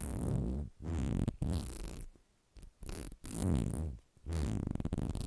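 Four scratchy rubbing strokes close to the microphone, each about a second long with short gaps between.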